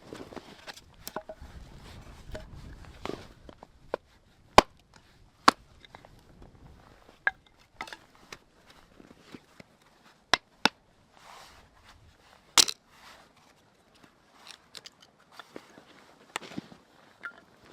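Wood being broken or chopped for a campfire: irregular sharp cracks and knocks, a handful of them loud, with soft crunching in between.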